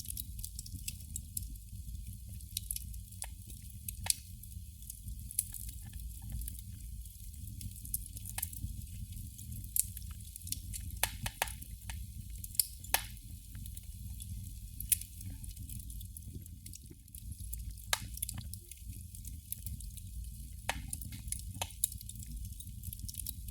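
Candle flame crackling: irregular sharp pops and ticks, sometimes several in quick succession, over a steady low rumble.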